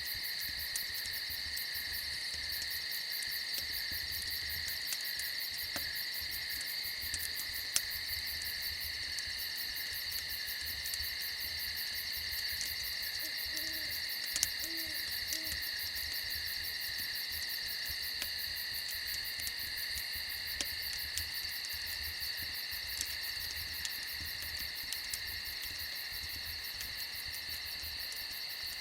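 Steady chorus of crickets trilling, with scattered sharp pops from a crackling fire and a few soft owl hoots about halfway through.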